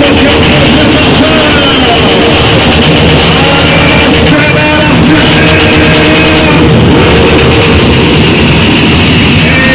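Vehicle engines running and revving, with loud music playing over them.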